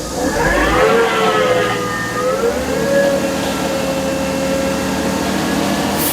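Heavy machinery's engine revving up: a whine that climbs in the first second, wavers, then holds a steady pitch over the running engine.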